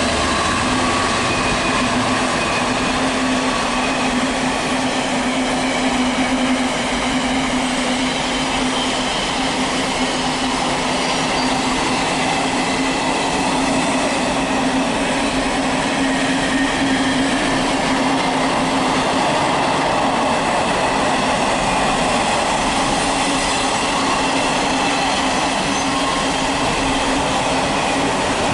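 Freight train's wagons rolling past at speed, a steady rush of wheels on rail with a constant low hum running under it.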